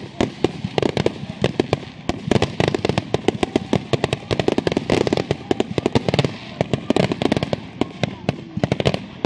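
Fireworks grand finale barrage: aerial shells bursting in rapid, overlapping reports and crackles, many a second without a break.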